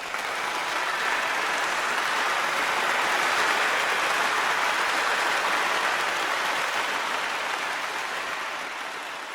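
Applause that swells and then slowly fades out.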